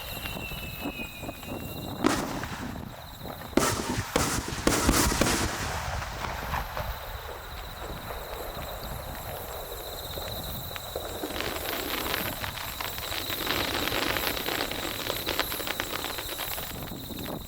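Fireworks going off: several sharp bangs of shells bursting in the first five seconds, then a long stretch of dense crackling from about eleven seconds in.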